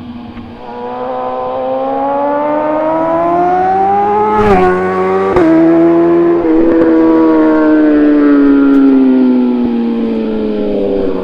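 A 2012 BMW S1000RR's inline-four through a full Austin Racing exhaust, accelerating hard past the listener. The revs climb for about four seconds, drop sharply with an upshift, then drop again with a second shift two seconds later. The engine stays loud while its pitch slowly sinks toward the end.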